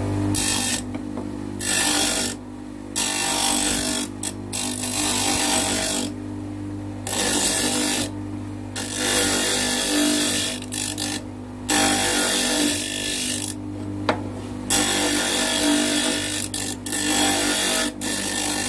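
Homemade bench grinder's motor running steadily while a piece of steel angle is pressed to the wheel again and again, loud grinding stretches of a second or two broken by brief gaps where only the motor hum is heard.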